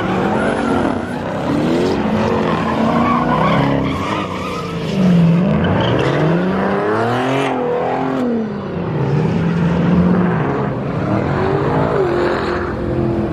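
Several car engines revving hard, their pitch rising and falling again and again and overlapping, over a steady hiss of spinning, skidding tyres: cars doing burnouts.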